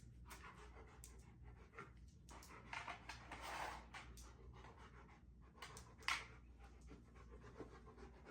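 Faint panting of a German shepherd dog, in a few short breathy spells, with scattered soft clicks.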